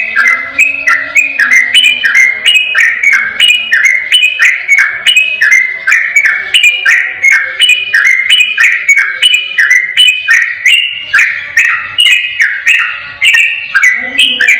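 Sooty-headed bulbul singing its rapid 'ropel' song: an unbroken run of short, clear whistled notes, about three or four a second, stepping up and down in pitch.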